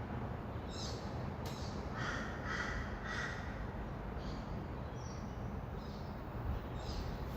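Rainbow lorikeets calling: a string of short, high-pitched calls, the loudest about two to three seconds in, over a steady low rumble of distant traffic.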